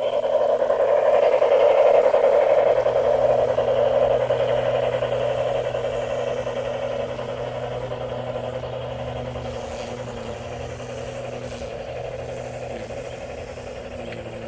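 Model train running past on its track: a dense, steady rattle that swells over the first two seconds and then slowly fades as it moves away, with a low steady hum underneath.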